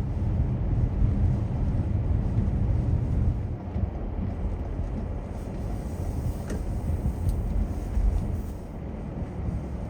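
Car driving: a steady low rumble of engine and road noise that eases off slightly in the second half, with one faint tick about six and a half seconds in.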